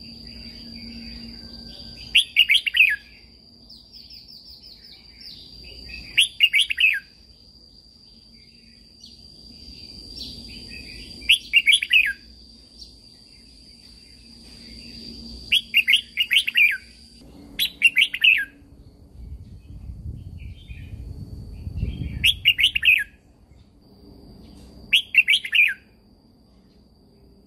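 Red-whiskered bulbul singing: seven short, bright warbled phrases, a few seconds apart. Under them runs a steady high thin whine, which stops about two-thirds of the way through.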